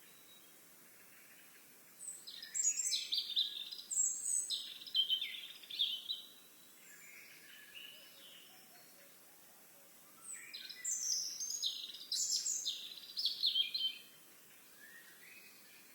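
A songbird singing two phrases of rapid, high, varied notes, each about four seconds long and several seconds apart, over a faint outdoor hiss.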